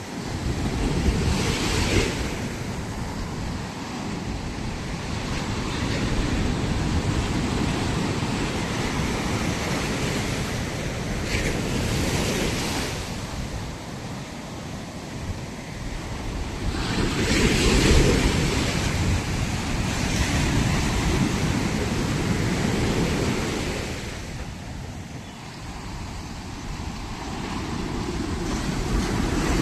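Ocean waves breaking and washing up the beach, each surge swelling and fading every several seconds, with wind buffeting the microphone.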